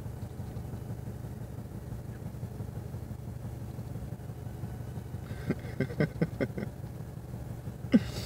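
Ducks quacking next to the car: a quick run of about six short quacks past the middle and one more near the end, over the steady low hum of the car's idling engine.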